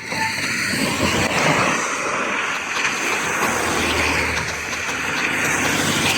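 Steady hiss of wind and wet-road noise while riding a gravel bike in the rain, with a motor vehicle's low engine hum swelling about four seconds in.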